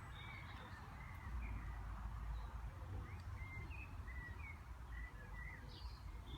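Wild birds chirping: many short, high calls and quick pitch glides, scattered through the whole stretch, over a steady low rumble.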